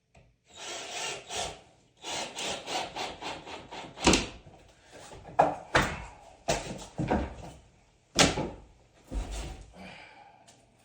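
Hand work on building material: a run of quick, even rasping strokes, like sawing or rasping, then several sharp knocks and shorter scrapes.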